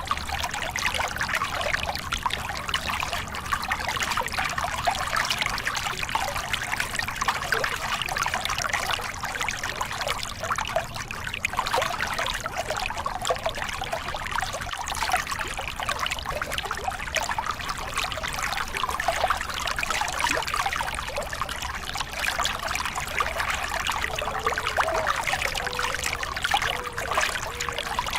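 Small river cascade: water pouring and splashing steadily.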